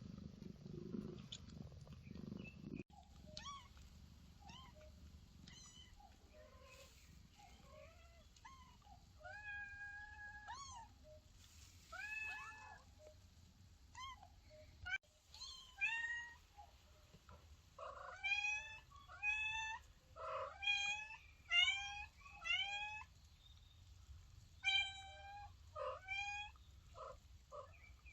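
Kittens meowing repeatedly in short, high calls that rise then fall. The calls come faster and louder in the second half.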